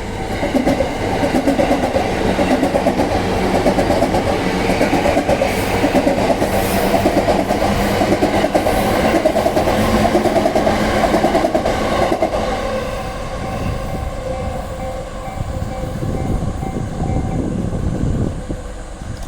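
A JR Yamanote Line E235-series electric train runs through a level crossing, its wheels clattering over the rails for about twelve seconds. The crossing's electronic warning bell rings in a steady repeating two-tone pattern and is heard again once the train has passed. It stops a couple of seconds before the end.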